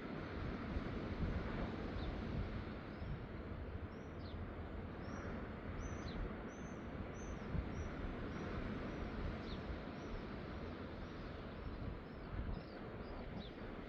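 Small birds calling repeatedly, short high chirps, some arched and some falling, coming one or two a second from a few seconds in until near the end, over steady wind noise on the microphone.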